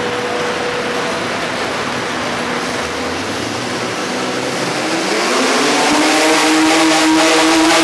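V8-powered minirod pulling tractor's engine running, then revving up about halfway through and holding at high revs.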